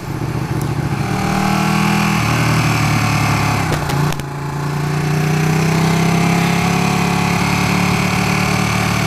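Ducati 959 Panigale's L-twin engine running under way. Its pitch steps down about two seconds in, dips briefly about four seconds in, then climbs gradually and holds steady.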